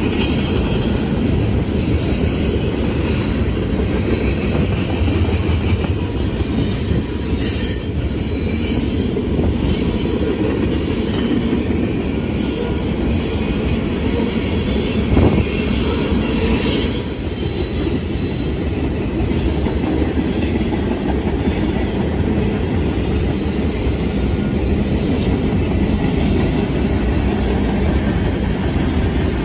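Freight cars of a manifest train rolling past on steel wheels: a steady low rumble of wheels on rail with high wheel squeal on and off, and a single sharp clank about fifteen seconds in.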